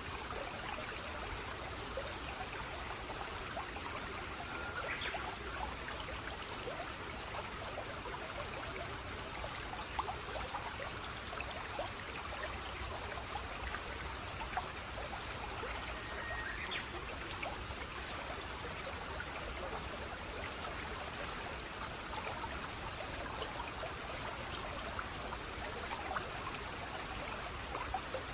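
A stream of running water, trickling and splashing steadily with many small splashes. Two faint short whistles come through it, about five seconds in and again a little past halfway.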